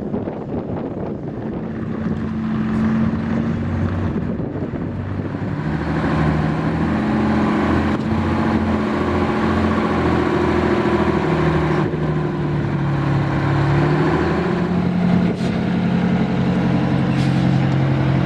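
Heavy truck engines running, their drone shifting in pitch, growing louder about five seconds in.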